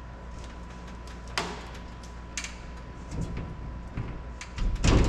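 Scattered clicks and knocks of a sheet-metal cab panel being pried into place, with a sharper knock about a second and a half in and a louder scraping clatter near the end, over a faint steady hum.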